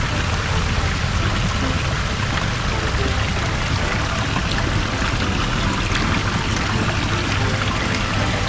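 Steady rush of running water, like a stream or small waterfall pouring into a pond, with background music faintly under it.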